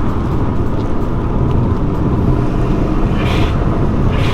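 Subaru Impreza WRX's flat-four engine running steadily under way, with road noise and two short hisses, one about three seconds in and one near the end.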